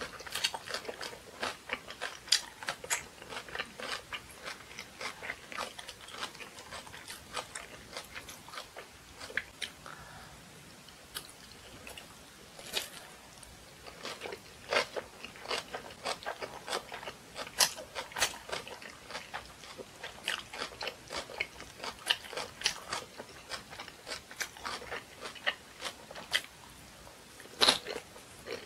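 A person chewing and crunching crisp napa cabbage kimchi with rice close to the microphone: a steady run of crisp crunches and wet mouth clicks, thinning out for a few seconds about a third of the way in.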